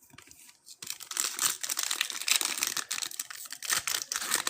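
Foil wrapper of a football trading-card pack being torn open and crinkled, with cards being handled: near quiet at first, then a dense crackling run of fine clicks and rustles starting about a second in.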